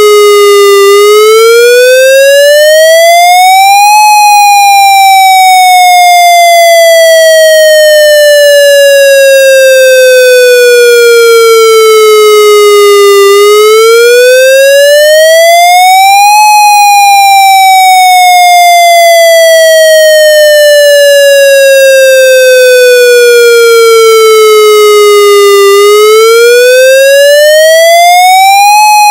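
Federal Signal MCP siren sounding its wail signal: a loud, clean tone that climbs quickly in pitch for about three seconds, then falls slowly for about nine, repeating in a steady cycle.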